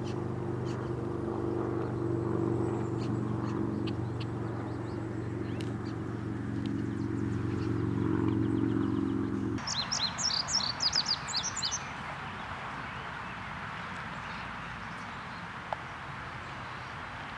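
A steady low hum of several held pitches cuts off abruptly about ten seconds in. Then a bird gives a quick run of high chirps over a steady hiss.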